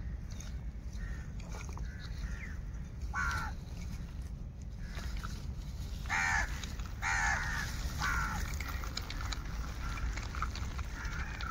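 Bird calling outdoors: a series of short harsh calls, the loudest three coming about a second apart in the second half, over a steady low rumble.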